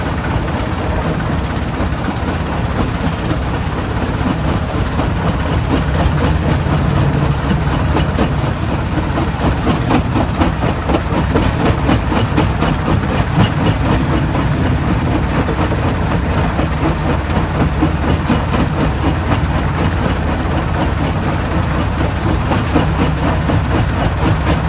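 Stone-crushing plant machinery running, with a steady heavy drone under a constant dense clatter of rock.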